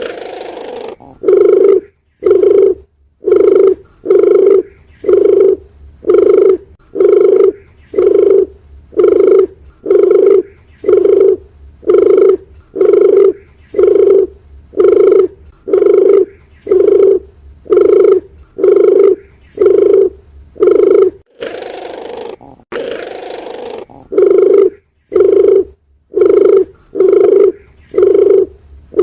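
Dove cooing: a long, even series of short, low coos at about one a second. A couple of seconds of hiss breaks the series about three quarters of the way in, then the coos resume.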